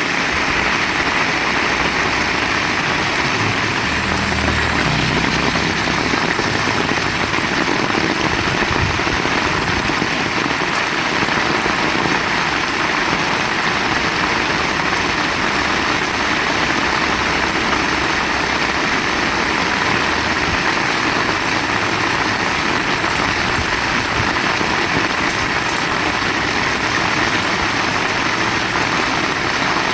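Heavy rain falling in a steady, loud hiss, with a brief low rumble about four to six seconds in.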